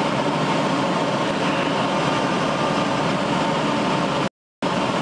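Steady drone of aircraft engines heard from inside the cockpit during a firefighting flight. About four seconds in, the sound cuts out completely for about a third of a second, then returns.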